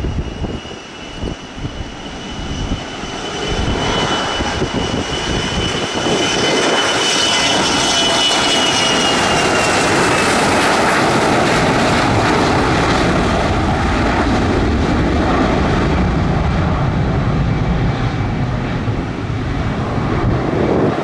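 Jet airliner's engines passing close: a loud rushing noise with a high whine that drops slightly in pitch as it goes by. The noise grows about three seconds in and stays loud. Gusts of wind buffet the microphone at first.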